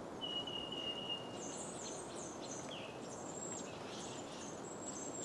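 Birds singing: one clear whistled note held for about a second and a half, then a run of high, thin chirps and short falling notes, over a steady outdoor background hiss.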